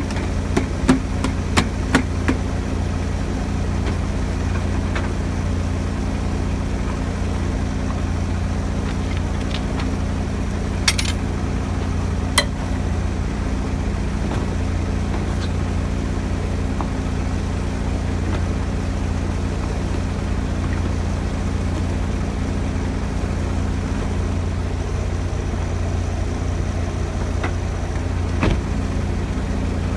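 A heavy engine idling steadily, with a few sharp metallic clicks and knocks, a cluster in the first couple of seconds and single ones later, and a brief hiss about a third of the way in.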